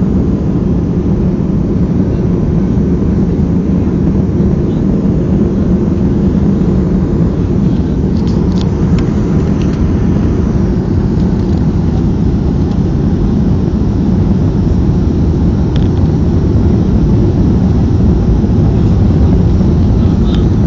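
Cabin noise inside a Boeing 737-300 airliner: a loud, steady low rumble of engine and airflow noise, with a few faint ticks near the middle and again near the end.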